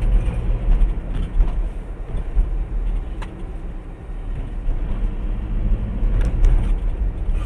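A moving car's engine and road noise heard from inside the cabin, a steady low rumble with a few faint clicks.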